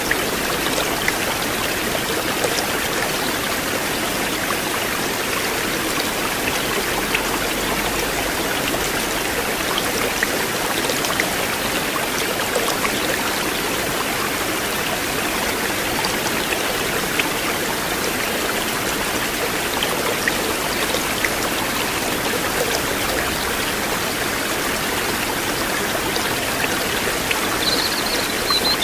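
River water flowing steadily, a continuous rushing with many small splashing ticks. A brief high-pitched chirp-like sound near the end.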